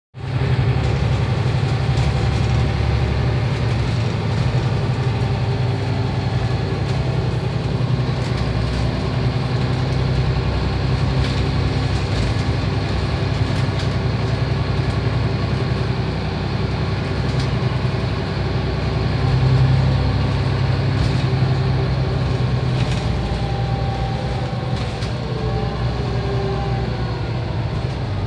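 Scania OmniCity single-deck bus's diesel engine running steadily while the bus is under way, with scattered rattles and clicks. It swells louder about two-thirds of the way through, then eases, its pitch shifting as it changes speed.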